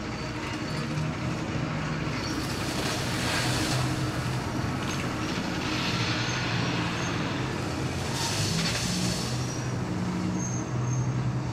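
Audience crowd noise in a hall: clapping and cheering that swells three times, with a few short high whistles.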